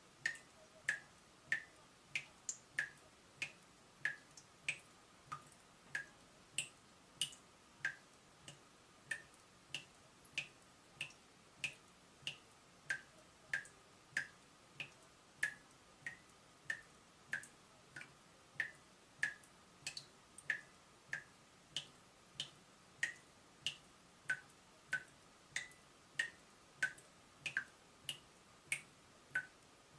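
Water dripping from a leaking tap: a steady run of single drops, about one and a half a second, each a short bright plink.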